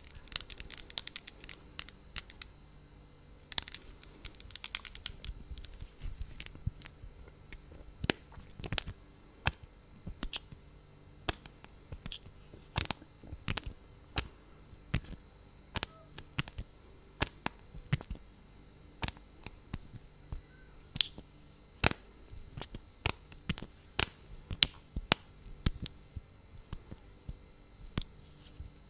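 Wet lip smacks and mouth clicks from lips coated in thick lip gloss, sharp pops at roughly one a second.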